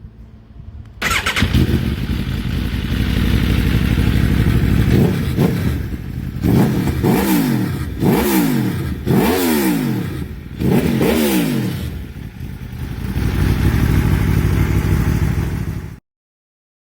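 Aprilia Tuono V4 Factory's V4 engine through an SC Project SC1-R exhaust firing up about a second in and running at a fast cold idle. A series of sharp throttle revs follows, each rising and falling quickly. It then settles back to idle before the sound cuts off abruptly.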